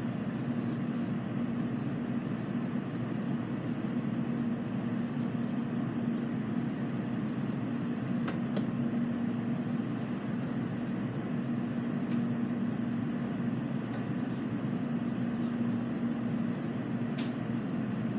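Steady cabin noise inside a running N700A Shinkansen car: an even rush of running noise with a steady low hum, and a few faint ticks.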